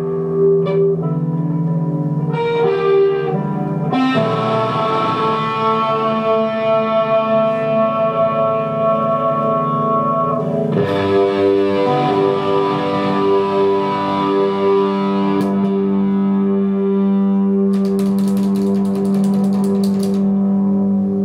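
Electric guitar with effects and distortion playing long, sustained droning chords that change twice, with a short burst of hiss near the end.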